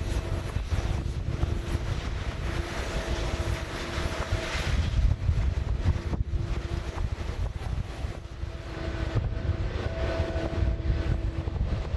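Jet airliner engines running, with steady engine tones coming and going and a swell of jet noise about four seconds in. Wind rumbles on the microphone throughout.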